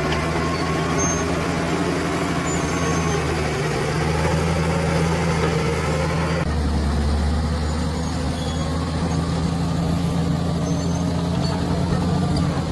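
A bulldozer's diesel engine running steadily under work, a continuous low drone. Its tone shifts about six and a half seconds in, when the higher-pitched noise drops away.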